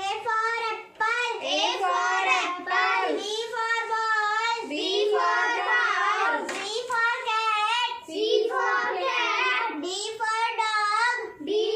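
A young girl singing an alphabet phonics rhyme in a high child's voice, in short sung phrases with brief breaks between them.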